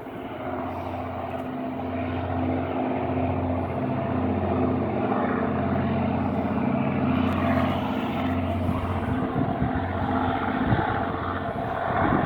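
Diesel locomotive hauling a freight train, its engine running with a steady low drone that grows louder over the first few seconds, then holds.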